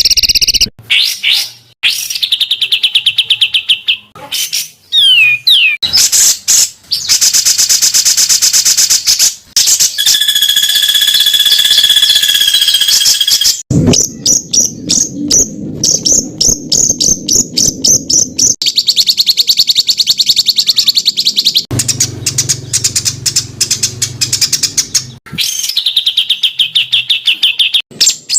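Recorded songbird song spliced into a sequence of different birds, changing abruptly every few seconds. It is mostly fast, harsh rattling trills and rapid-fire notes (the 'tembakan' that the birds are meant to learn), with one steady whistled note a little before the middle.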